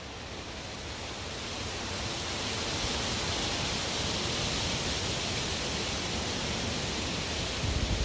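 Strong wind rushing in a steady hiss that swells over the first few seconds as a gust builds and then holds. Near the end, low rumbling buffets of wind hit the microphone.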